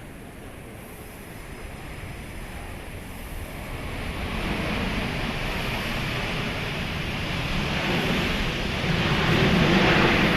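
Jet airliner landing, its engine noise a rushing roar that grows steadily louder from about four seconds in and is loudest near the end as it passes close.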